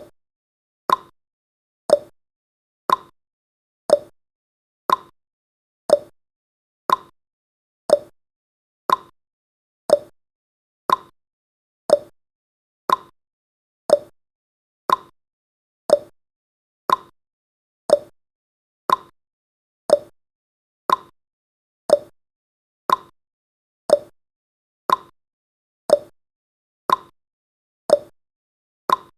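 Clock tick-tock sound effect: one sharp tick each second, evenly spaced, marking off the countdown, with successive ticks alternating slightly in pitch.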